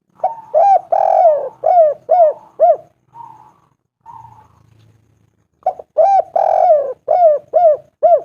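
Spotted dove (tekukur) cooing: two phrases of about six short arched coos each, with a longer coo second in each run. The second phrase comes about five and a half seconds in.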